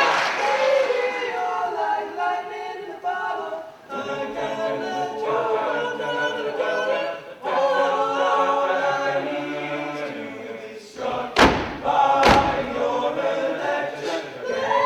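An a cappella vocal ensemble singing in several-part harmony without instruments. Near the end come two sharp thumps about a second apart.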